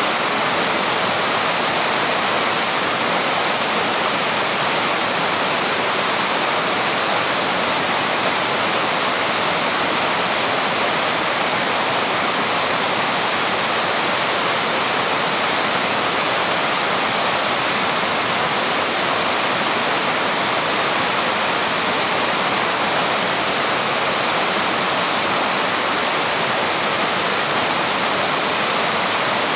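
Waterfall rushing: a steady, loud roar of falling water, even throughout.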